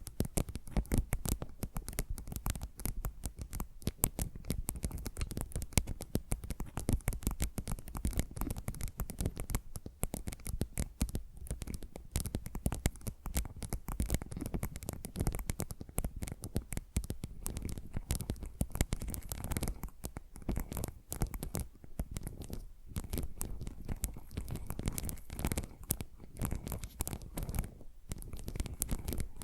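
Fast, dense fingernail scratching and tapping on ASMR trigger objects, two trigger recordings overlapped with one on the left and one on the right.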